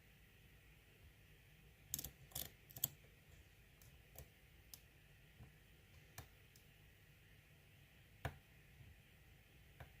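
Small clicks of a lock pick and tension wrench working the pins of an ASSA six-pin euro cylinder fitted with security pins: a quick run of several clicks about two seconds in, then single clicks every second or two.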